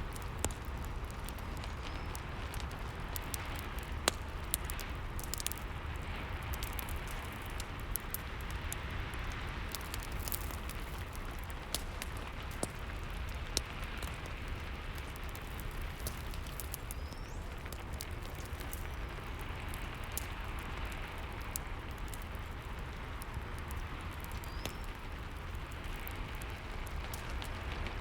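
Steady rain hiss with a fireplace crackling over it: scattered sharp pops and snaps from the burning wood.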